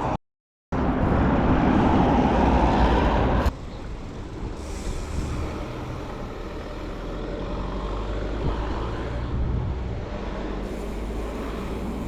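Road vehicle noise: after a brief dropout, a loud, even rush of road noise cuts off abruptly about three and a half seconds in, giving way to a quieter, steady engine and traffic hum.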